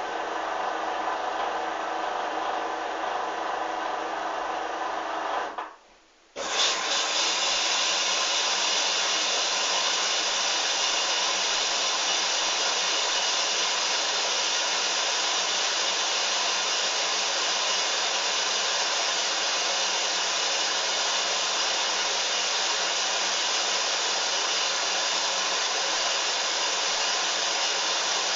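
Hoover washing machine spinning, its motor and drum giving a steady high-pitched whirr. The sound cuts out almost to silence about six seconds in, then comes back louder and holds steady.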